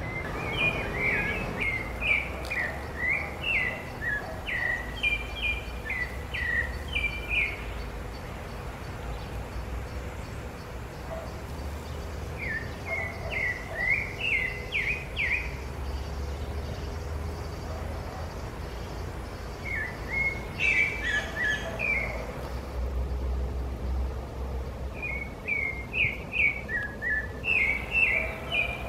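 A songbird singing in runs of quick, sharp chirping notes, four runs of a few seconds each with pauses between, over a low steady background rumble.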